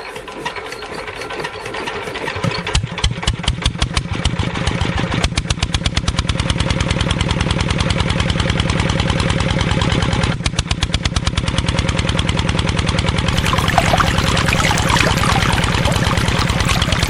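Small engine starting up, its firing beat quickening and growing louder over the first few seconds, then running with a steady fast chug. It dips briefly about ten seconds in, and a harsher rattle comes in near the end.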